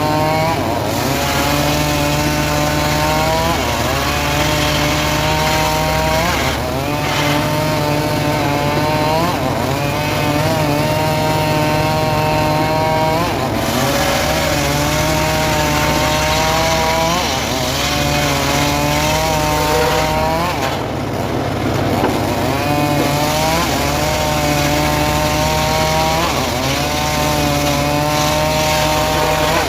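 Homemade engine-driven sawmill saw cutting sengon wood. A steady engine drone runs under a saw whine that sags and rises again every three seconds or so.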